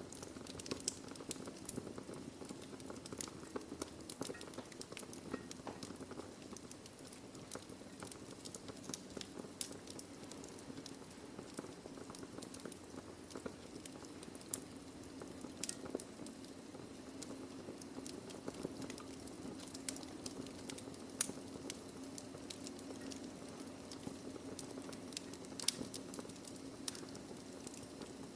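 Wood fire burning in a fireplace: a steady low rumble of flames with frequent irregular crackles and sharp pops of burning logs, one louder pop about three quarters of the way through.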